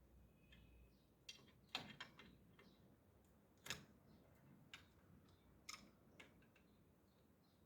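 Near silence, with a few faint, irregularly spaced clicks and taps.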